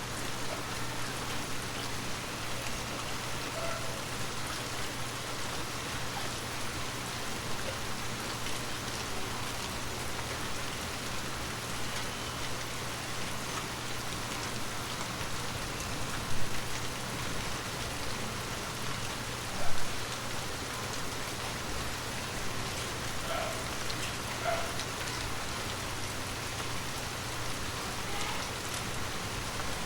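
Steady heavy rainfall, an even hiss of drops on surfaces, with two brief louder drop hits past the middle.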